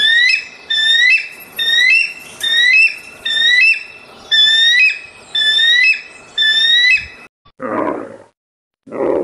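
A steady series of about nine short, high-pitched squeaky animal calls, roughly one a second, each stepping up in pitch. Near the end come two short, deep, rough camel grunts.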